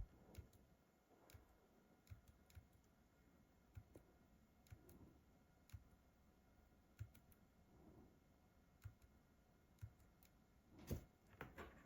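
Near silence with faint, sharp clicks at irregular intervals, roughly one a second, and a short cluster of clicks near the end.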